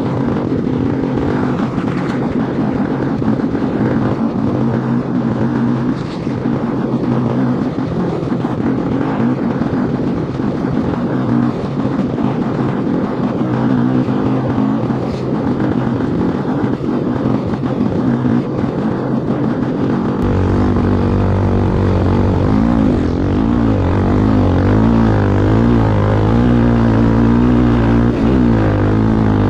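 Motorcycle engines running at race speed, the revs rising and falling. About twenty seconds in, a deeper, louder engine note comes in, its pitch swinging up and down.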